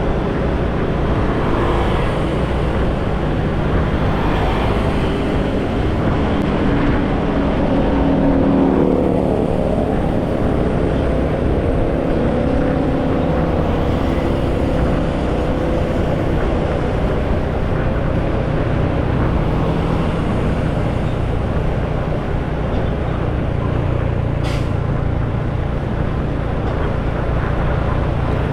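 Motorcycle riding on the road, with steady engine, wind and traffic noise. About nine seconds in, a pitch rises and falls, and there is a brief sharp sound near the end.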